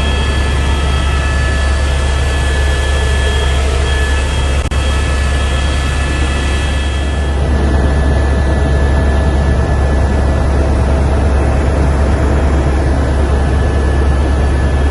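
Helicopter running loud and steady: a deep continuous drone with a steady high whine over it. About halfway through, the higher hiss falls away while the drone carries on.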